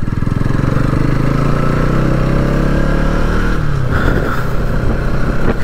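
Bajaj Pulsar NS200's single-cylinder engine running under way, heard from the riding motorcycle. The engine note falls gradually as it slows, then turns rougher about three and a half seconds in.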